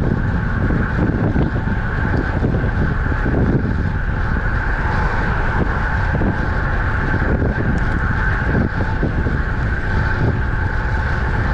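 Wind buffeting the microphone of a camera riding on a road bike at speed: a loud, steady rumble with a faint steady higher hum above it.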